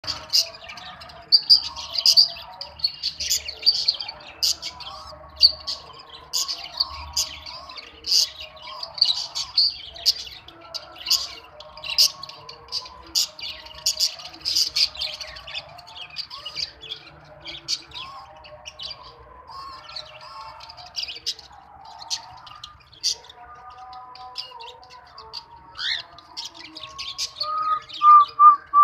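A mixed flock of cockatiels, budgerigars and Fischer's lovebirds chirping and chattering continuously. Many short, sharp, high chirps ring out over a lower, warbling chatter.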